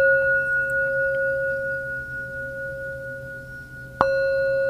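Struck bell-like sound-healing instrument ringing and slowly fading, with a clear main pitch and a few higher overtones. It is struck again about four seconds in and rings afresh.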